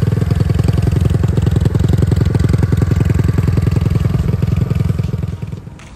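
Custom Honda Super Cub's single-cylinder four-stroke engine idling steadily with a fast, even putter, then fading out near the end.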